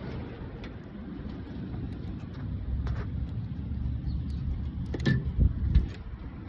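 Low, steady engine and road rumble of a moving vehicle. A few sharp knocks and rattles come through, the loudest a little past halfway and another shortly after.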